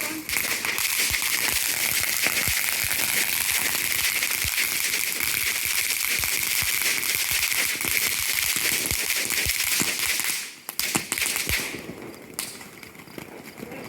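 A lit ground firework burning with a steady hiss and dense crackling for about ten seconds. It breaks off, sputters briefly once more, then dies down.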